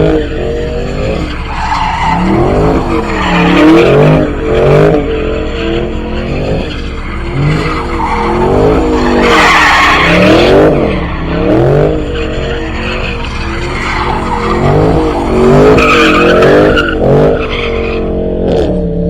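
Car spinning donuts: its engine revs up and down over and over while the tires squeal and skid on the pavement, the screech loudest about nine to eleven seconds in.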